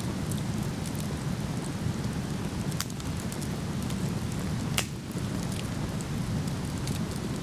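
Steady rushing of a waterfall with a wood fire crackling over it in scattered sharp pops. One louder pop comes about five seconds in, and a smaller one about three seconds in.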